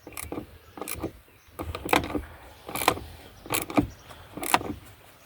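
Socket ratchet being worked back and forth on a stiff seat mounting bolt, the pawl clicking in short bursts roughly once a second as each stroke is reset.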